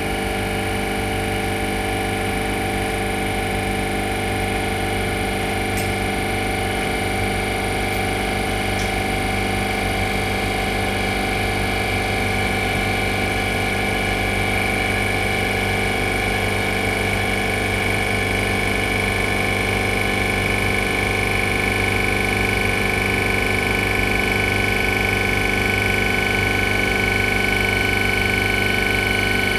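Bitzer 2CES-4Y semi-hermetic two-cylinder piston refrigeration compressor running steadily on a test run: a constant hum with a high whine that grows slightly stronger.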